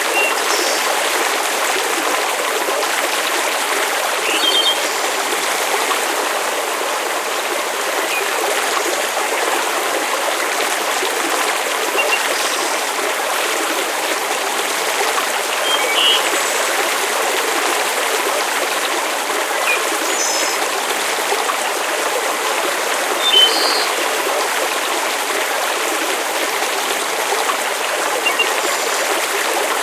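Steady hiss of rain with small, sharp campfire crackles popping here and there, about ten of them scattered through it.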